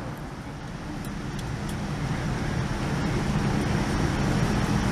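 Steady low cabin rumble inside a Boeing 787-9 airliner at the gate during boarding, growing louder over the first few seconds.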